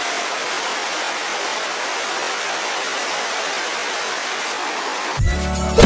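Steady, even rushing noise with no low rumble, of the kind heard from heavy rain or rushing water. Near the end, electronic music with a heavy bass cuts in.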